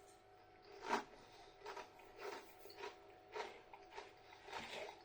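Faint crunching and chewing of a tortilla chip: one louder crunch about a second in, then regular chewing about twice a second.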